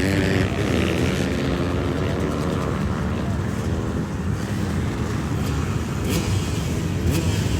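Dirt bike engines running and revving, their pitch rising and falling over the first few seconds, over a steady low rumble.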